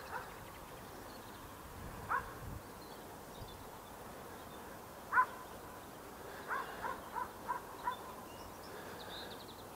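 Bird calls over faint outdoor background: single short rising notes about 2 s and 5 s in, the second louder, then a quick run of five or six notes from about 6.5 to 8 s.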